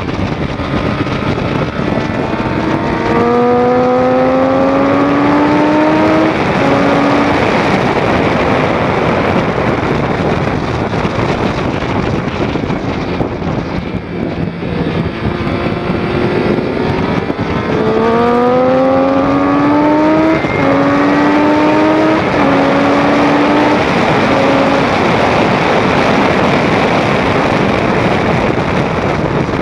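2006 Triumph Daytona 675's inline-three engine accelerating hard twice, a few seconds in and again past the middle. Each time its note climbs and drops sharply at every upshift, over a constant rush of wind on the microphone.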